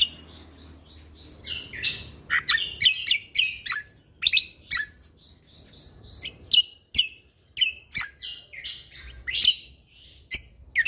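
Greater green leafbird (cucak kombo) singing a fast, unbroken string of sharp, high notes and chirps, many of them steep downward slurs.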